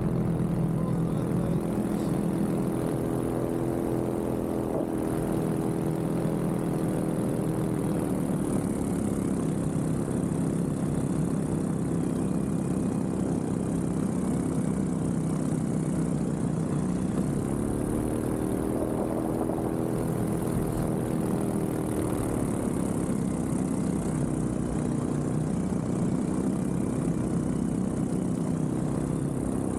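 Vittorazi Moster 185 two-stroke paramotor engine and propeller running in flight, with wind rush on the microphone. The engine note drops about a third of the way in, climbs again a little past halfway and drops once more about three-quarters through.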